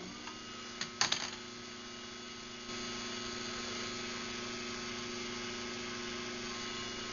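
Craftsman 139.53918D garage door opener's motor running a cycle after a remote press, a steady hum with a brief clatter about a second in. Almost three seconds in, a louder, noisier running sound joins in.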